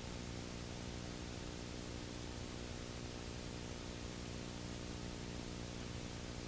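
Steady electrical hum with many overtones under a constant hiss, unchanging throughout: background noise of the recording itself, with no other sound.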